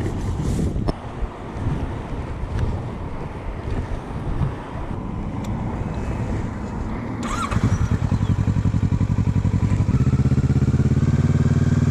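Motorcycle engine starting about seven and a half seconds in and then idling with a steady low pulsing beat that grows stronger near the end. Before it, several seconds of wind-like noise with a few sharp clicks.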